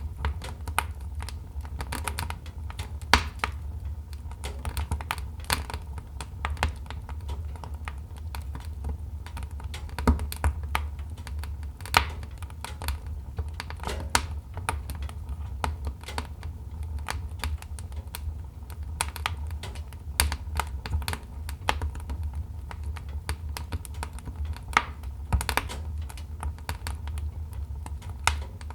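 Wood fire in a fireplace crackling, with irregular sharp pops and snaps of varying loudness over a steady low rumble.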